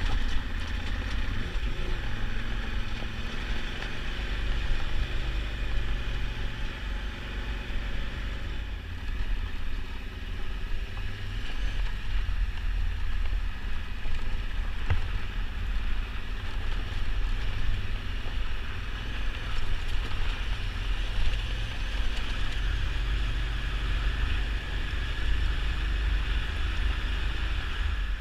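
Adventure motorcycle's engine running steadily while riding, heard from the camera bike, a KTM 990 Adventure V-twin, with wind noise on the microphone.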